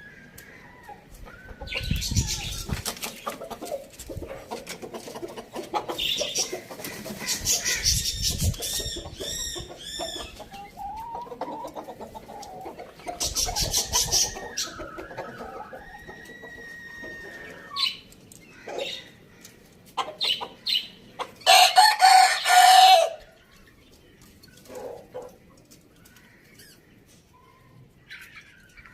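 Chickens clucking, with a rooster crowing once, loudly, about three-quarters of the way through. A few short rustling bursts come in the first half.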